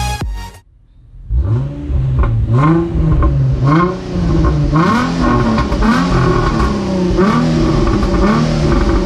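Nissan 350Z's 3.5-litre V6 being revved at the exhaust, blip after blip, roughly once a second. Each rev rises in pitch and falls back. The engine starts a little over a second in.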